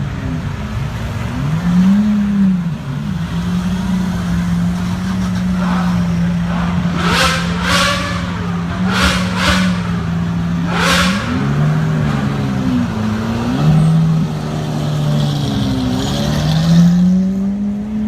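A car engine running, its pitch rising and falling several times as it is revved. In the middle come four or five short hissing bursts.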